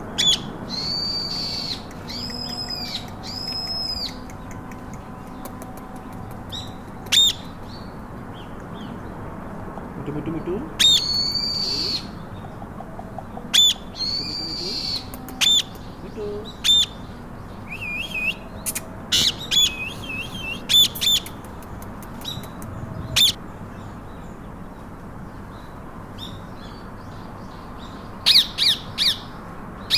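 Pet parakeets squawking: several harsh, drawn-out calls about a second each in the first few seconds and again around the middle, with many short sharp shrieks scattered between them and a quick run of calls near the end.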